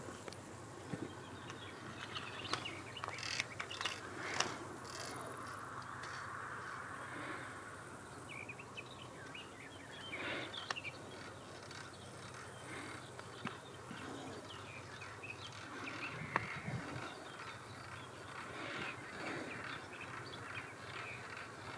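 Outdoor ambience with scattered bird calls and chirps over a faint steady low hum.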